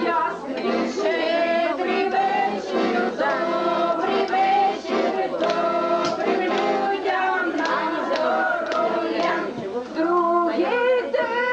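Several voices singing a song together over musical accompaniment.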